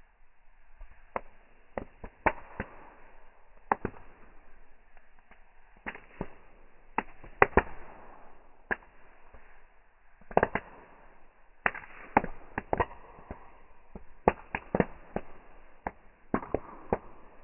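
Bonfire crackling, with wood popping in irregular sharp cracks of varying loudness, some in quick clusters, over a faint hiss.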